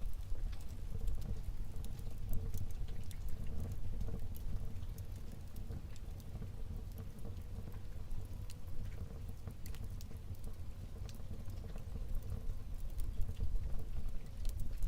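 Wood fire burning in a fireplace: a steady low rumble of flames with frequent small crackles and pops, a few sharper pops near the end.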